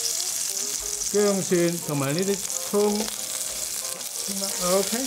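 Aromatics frying in hot oil in a wok: a steady sizzling hiss.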